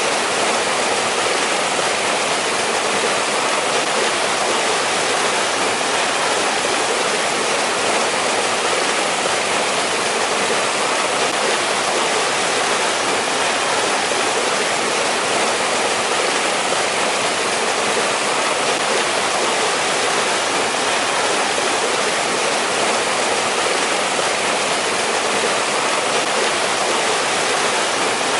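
Mountain stream water rushing and splashing over rocks, a steady, even rush without a break.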